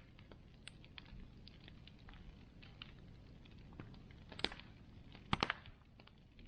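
Wood bonfire crackling: scattered small ticks and snaps throughout, with a louder pop past the middle and a quick run of three pops about a second later.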